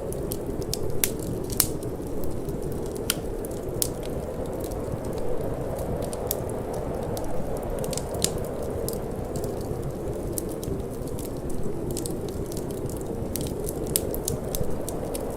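Wood fire crackling, with irregular sharp pops and snaps scattered through, over a steady low rush of wind.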